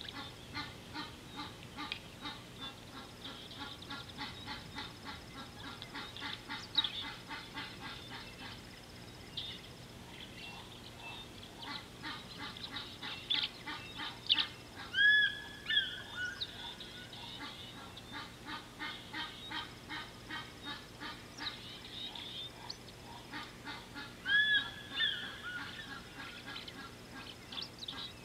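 Birds calling: long runs of quick, repeated short notes, with a few louder swooping calls on two pitches at once, the loudest about halfway through and again near the end.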